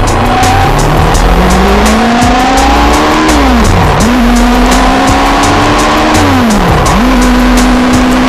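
Yamaha R6 sport bike's inline-four engine accelerating hard: its pitch climbs, drops sharply at two upshifts a few seconds apart, then holds steady at high revs. Heavy wind rush underneath.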